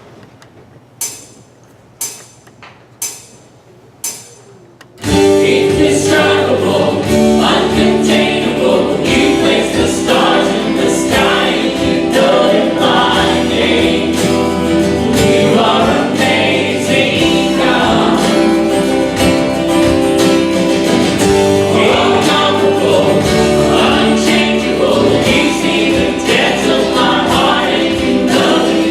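Four sharp clicks, one a second, counting in, then a band with guitar and a choir singing a gospel-style closing song.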